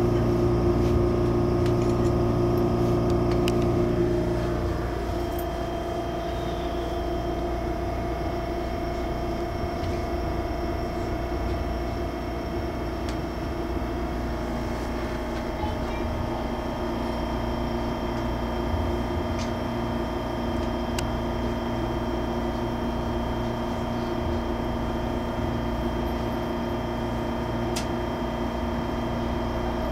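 Steady mechanical drone inside the cabin of an MTR Airport Express CAF train, with several fixed hum tones. The louder tones drop away about four seconds in.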